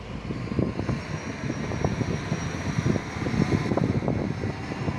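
Strong gusty wind blowing and buffeting the microphone: a continuous low rumble that surges irregularly with the gusts.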